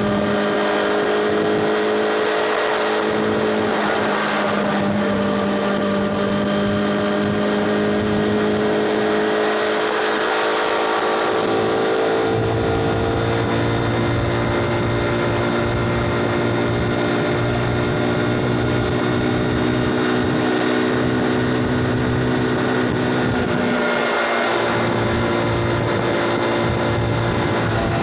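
KTM RC 390's single-cylinder engine running at steady road speed, its pitch shifting about halfway through and again near the end, over a steady hiss.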